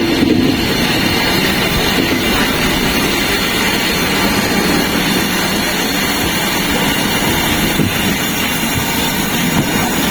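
Passenger train running, a steady loud rumble of wheels on track.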